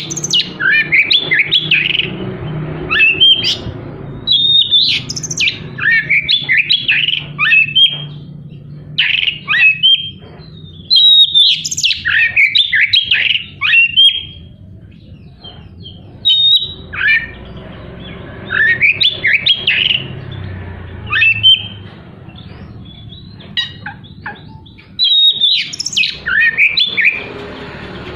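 Oriental magpie-robin (kacer) singing loud, harsh phrases of rapid sweeping notes. Each burst lasts a second or two and is followed by a short pause.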